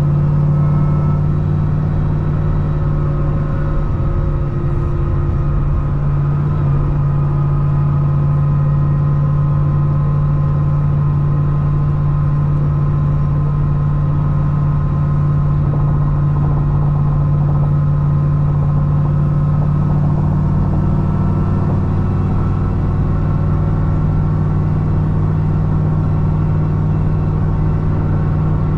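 C6 Corvette ZR1's supercharged 6.2-litre LS9 V8, fitted with a Kong 2650 blower, running at a steady cruise with its deep engine note holding one even pitch.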